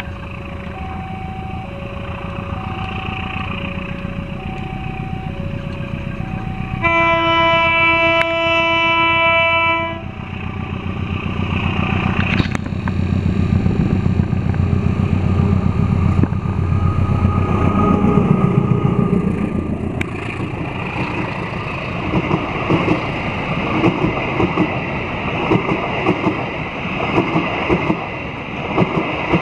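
Level-crossing alarm sounding an alternating two-tone signal, then a diesel train's horn blows once for about three seconds. The train passes with a rising engine rumble, followed by a steady clickety-clack of the carriage wheels over rail joints.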